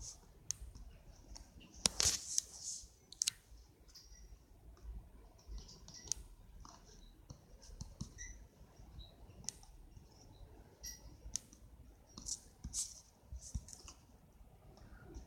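Scattered light clicks and taps at an irregular pace, with a louder cluster about two seconds in and another around twelve to thirteen seconds in.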